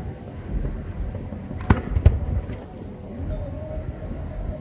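Aerial fireworks shells bursting: two sharp bangs close together about two seconds in, over a continuous low rumble of more distant reports.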